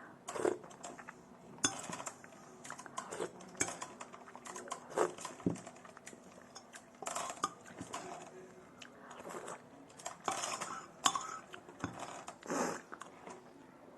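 Spoon clinking and scraping against a bowl in irregular strokes, with close-up eating sounds in between.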